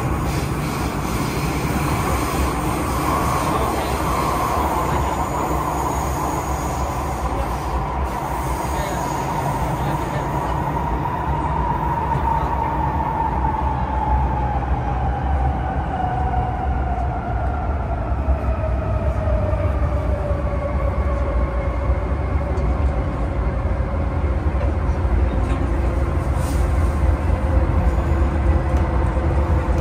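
MTR M-Train electric multiple unit running on the Tseung Kwan O Line, its traction motor whine slowly falling in pitch as the train slows, over a steady rumble of wheels on rail.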